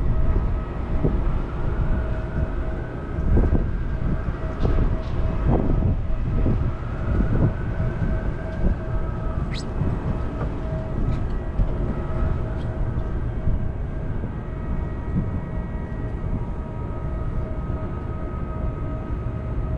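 Street noise on a bicycle ride: a steady low rumble of traffic and wind on the microphone, with a distant siren wailing faintly up and down in the first half and a few light clicks.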